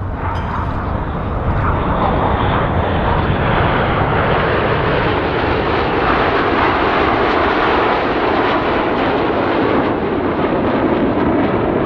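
Red Arrows formation of BAE Hawk T1 jets flying past, the steady rushing roar of their Rolls-Royce Turbomeca Adour turbofan engines. It builds over the first couple of seconds, then holds.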